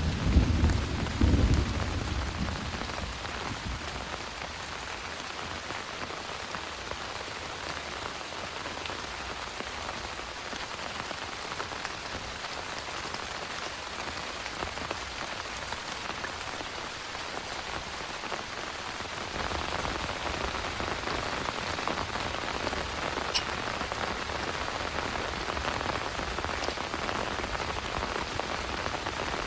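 Heavy rain pouring steadily, with the tail of a thunderclap rumbling low and fading in the first couple of seconds. The rain grows louder about two-thirds of the way through.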